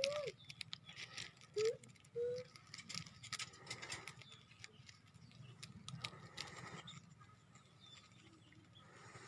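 Faint, irregular light taps and clicks, with a couple of brief faint pitched sounds near the start and about two seconds in.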